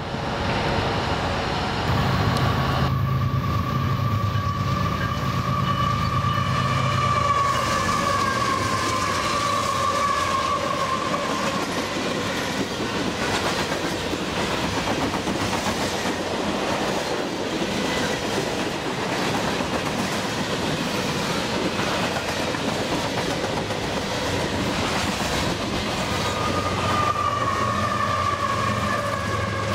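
Union Pacific freight train rolling close past, its cars clattering and clacking over the rails. A long high-pitched squeal runs from about two seconds in until about twelve seconds, and comes back near the end.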